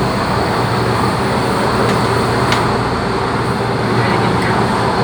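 Inside an MTR Tung Chung line CAF-built train running between stations: a steady, loud rush of wheel and track noise with a constant low hum, and a faint click about halfway through.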